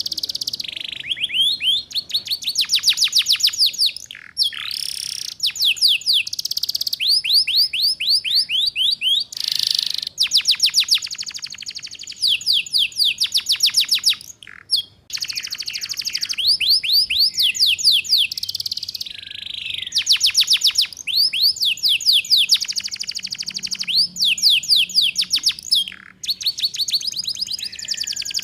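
Domestic canary singing the rapid 'ngeriwik' trill: long runs of fast, evenly repeated downward-sweeping notes, broken by short pauses and changes of note.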